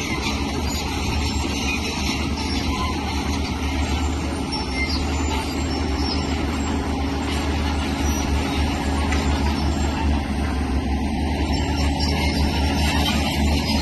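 Diesel engine of heavy earthmoving machinery, a bulldozer or excavator, running steadily under load with a deep, even drone.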